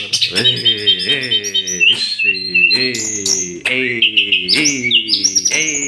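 Tledekan gunung songbird singing in full voice, a fast unbroken string of high chirps, trills and short rising whistles. Under it runs a lower, repeated pitched call that bends up and down.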